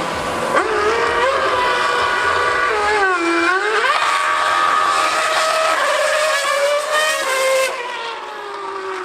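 2013 Formula One car's V8 engine running at very high revs on track, its pitch dipping and climbing back about three seconds in as it shifts and brakes, then holding high before falling away near the end.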